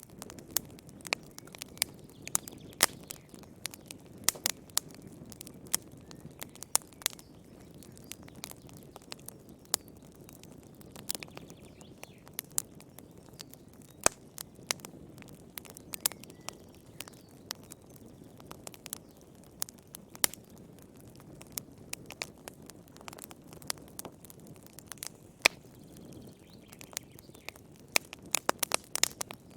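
Wood fire crackling in a fireplace: irregular sharp pops and snaps over a low steady rush of the flames, with a quick run of pops near the end.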